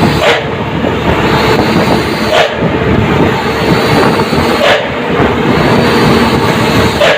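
Truck engine running loud, with a sharp 'spok' puff from the exhaust about every two seconds, four in all.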